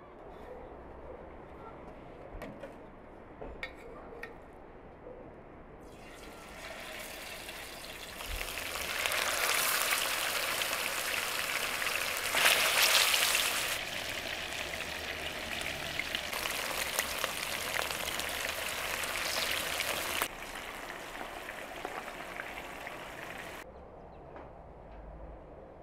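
Chicken pieces sizzling in hot oil in a wide frying pan, a dense, steady hiss that starts about six seconds in, is loudest for a few seconds in the middle and cuts off near the end. A few faint clicks come before the sizzling starts.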